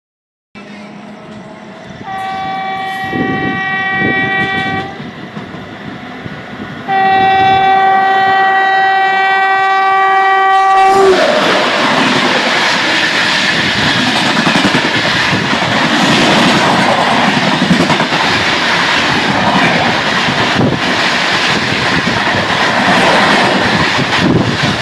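Express train horn sounds twice, a steady chord of several notes: a shorter blast, then a longer, louder one. About eleven seconds in, the train passes at speed, a loud continuous rush of wheels and rail clatter.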